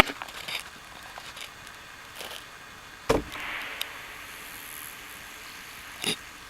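Knocks on the side of a wintering honey bee hive, three in all, the loudest about three seconds in, each bumping the colony. A faint brief hiss follows the loudest knock: the cluster's buzz as the bees flinch together, the sign that the colony is alive.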